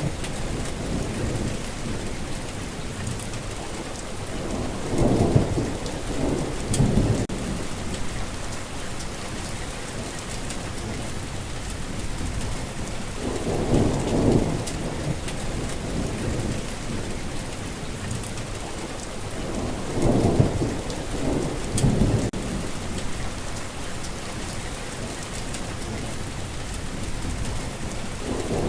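Heavy rain falling steadily, with three low rolls of thunder spread through it, each lasting two to three seconds.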